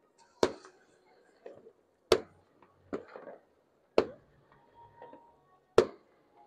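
Fireworks going off: four sharp bangs about two seconds apart, with fainter pops and crackles between them.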